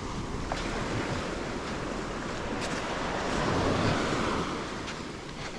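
Sea waves washing onto a rocky shore, swelling and easing off about midway through, with wind buffeting the microphone.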